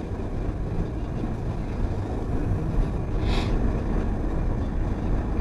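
Steady low rumble of a car's engine and tyres on the road, heard from inside the moving car, with a brief hiss about three seconds in.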